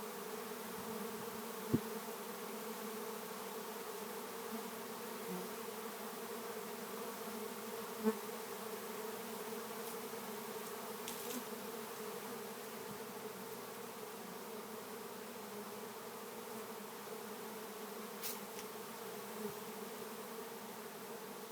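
A honey bee swarm in flight: a steady, many-layered buzzing hum of hundreds of bees. Two brief taps stand out, about two and eight seconds in.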